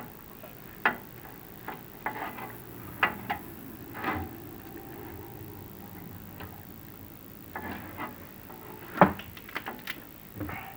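Chimney inspection camera and its push rod knocking and scraping against clay flue tile as they are fed down the flue: scattered, irregular clicks and knocks, the loudest about nine seconds in, over a faint low hum.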